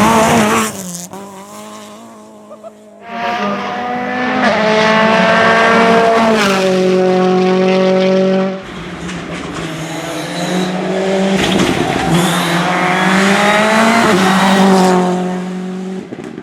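Rally cars at full throttle. Each engine revs up through its gears, rising in pitch, then falls away as the car passes. The sound is loud in the first second, quieter for about two seconds, then loud again until it drops off at about eight and a half seconds, before a second car builds up and fades near the end.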